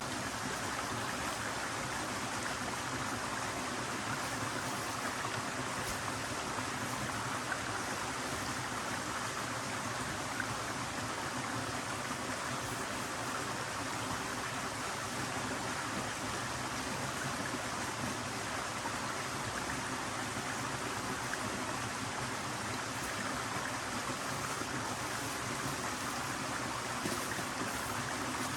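A stream flowing: a steady rush of running water.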